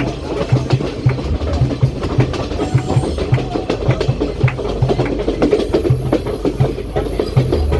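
Passenger train running along the track, its wheels clattering over the rail joints in a constant rumble with repeated knocks.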